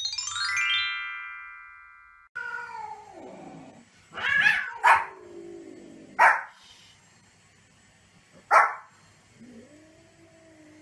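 A short chime jingle of quickly falling notes, then a small white spitz-type dog barking four times in sharp single yaps, with a cat meowing between the barks.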